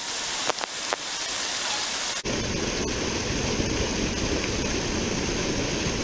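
Flowing water of a small river rushing steadily. It is a thin, hissy rush for about two seconds, then changes abruptly to a fuller, deeper rush.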